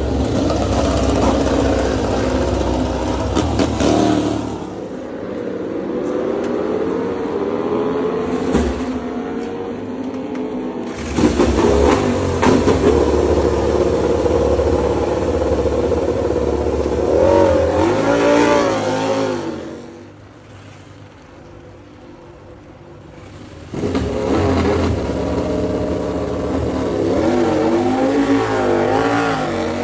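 MotoGP racing motorcycles passing at speed, their engines revving hard and rising and falling in pitch through gear changes. The bikes come past in several loud passes, with a quieter spell of about three seconds about two-thirds of the way in.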